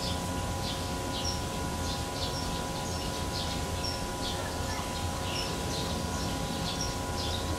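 Small birds chirping in short high notes, two or three a second, over a steady mechanical hum and a low rumble.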